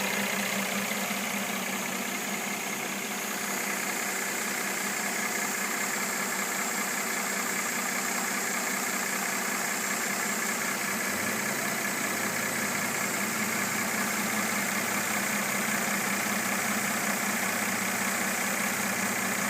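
2013 Mercedes-Benz E350's V6 engine idling steadily, with the knock that the owner hears on the new car. A low hum comes in about halfway through.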